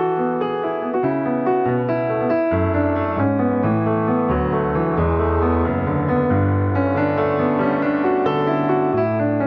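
Piano music: a steady flow of melody notes over changing low bass notes.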